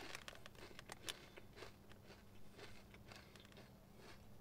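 Faint crunching of chips being chewed, a scatter of small sharp clicks, over a low steady hum.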